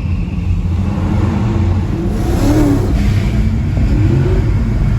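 Car engine running with a low, steady rumble, its pitch rising and falling about halfway through and again near the end as it is revved or accelerates.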